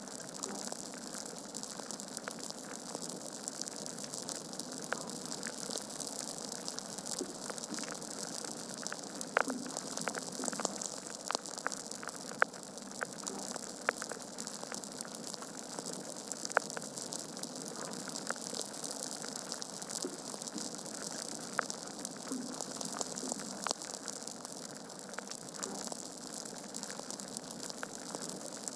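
Wood fire burning in a fireplace: a steady hiss with dense, irregular crackles and pops from the burning logs.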